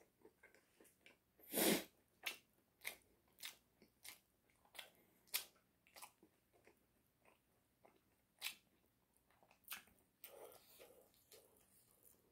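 A person biting into and chewing oven-baked chicken. A loud bite comes about two seconds in, then crunchy chews about twice a second, growing sparser toward the end.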